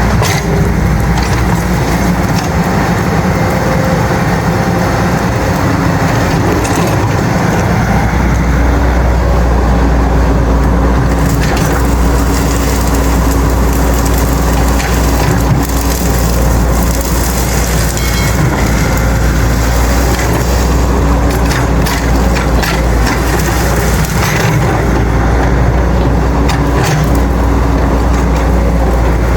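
Diesel engine of a Caterpillar excavator running steadily under load, with cracking and snapping of dry brush and branches being crushed. The low engine note grows heavier about eight seconds in.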